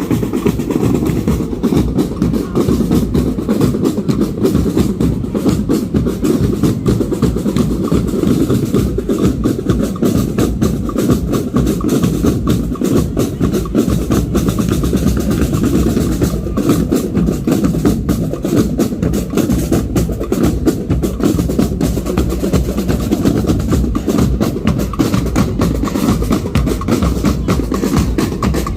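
Marching drum corps playing: snare drums, bass drums and other percussion in a fast, continuous rhythm with rolls.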